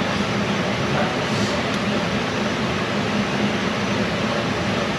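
Steady, unchanging machine-like noise with a faint low hum underneath, as from shop equipment running continuously.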